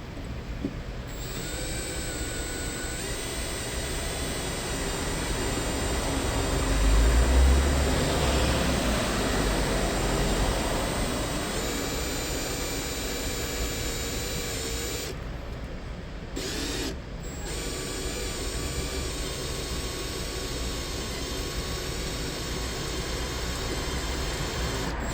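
Electric drill running steadily, its bit boring into a broken steel bolt in a drum washing machine's rotor mount to drill a hole through it. The drill stops briefly twice, about 15 and 17 seconds in.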